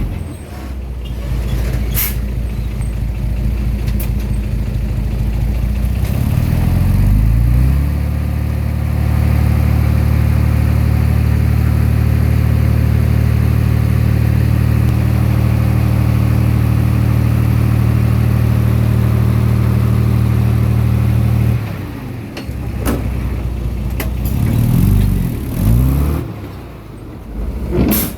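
Komatsu D20P bulldozer's diesel engine under work. About six seconds in its revs rise, then it runs steady at high revs for about fourteen seconds. It drops back suddenly and the revs rise and fall, with a few sharp metallic knocks.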